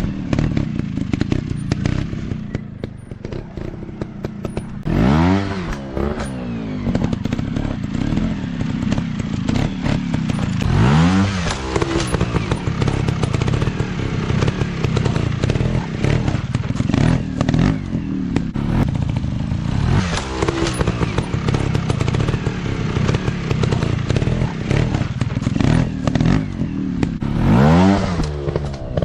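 Small single-cylinder trail motorcycles running off-road, engines revving up sharply and dropping back about four times between stretches of uneven lower-rev running, with steady clattering and knocks from the bikes over rough ground.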